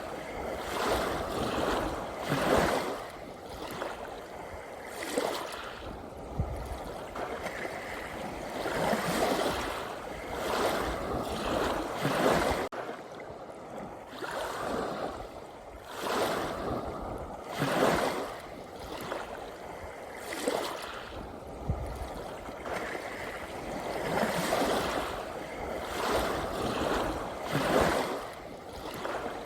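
Ocean waves washing in, a surge of rushing water every two to three seconds with softer lulls between.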